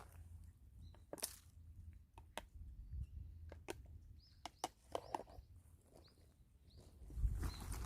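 Stray cat eating, its chewing heard as irregular small clicks and smacks, with faint bird chirps behind. Louder rustling comes in near the end.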